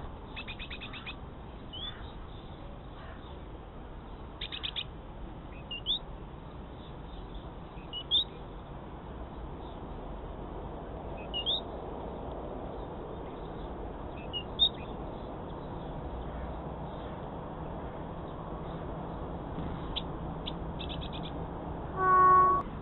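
Small birds chirping: short, high, upward-slurred chirps every two to three seconds, with a few quick rattling clusters of ticks, over a steady low hiss. Near the end comes one loud half-second pitched call or tone.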